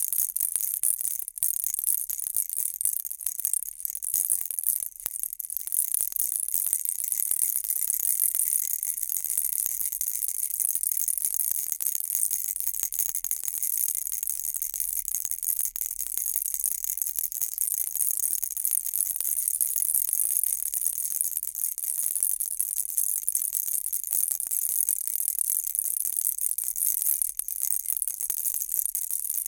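Baby rattle shaken continuously: a dense, bright, high-pitched rattling that barely lets up, with a couple of brief dips about four to five seconds in.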